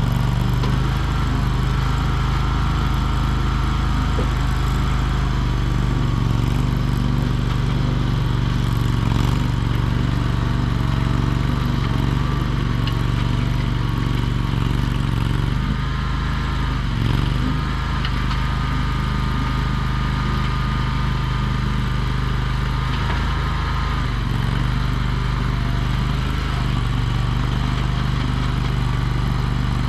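Small engine of a Chinese-made mini skid steer running steadily, with brief shifts in pitch a little past halfway and again later on.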